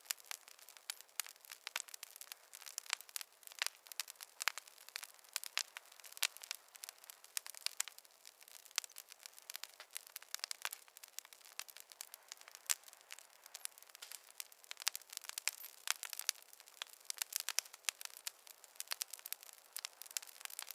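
Wood fire in a fireplace crackling: a continuous stream of irregular sharp pops and snaps over a soft hiss, with no low rumble under it.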